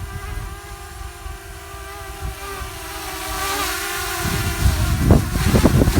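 Hubsan Zino Mini Pro drone's propellers humming with a steady whine whose pitch wavers slightly, over low wind rumble on the microphone that turns into heavy gusty buffeting in the last couple of seconds.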